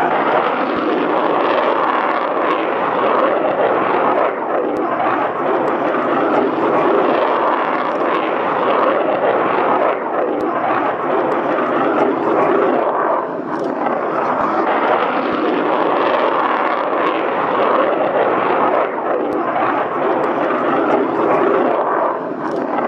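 An airplane in flight: the loud, steady noise of its engines, swelling and dipping slightly but never stopping.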